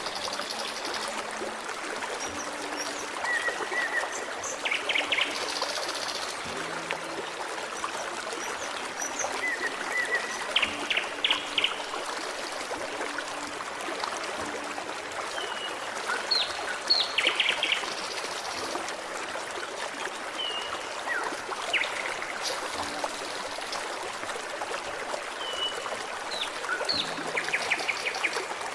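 Forest stream babbling steadily, with songbirds giving short chirps, quick falling notes and brief whistles every few seconds.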